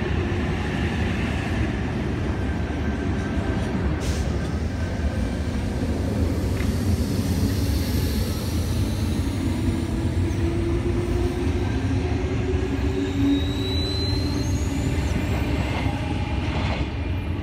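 Steady low rumble of a Sydney electric double-deck suburban train at the station, with faint high rising whines in the second half.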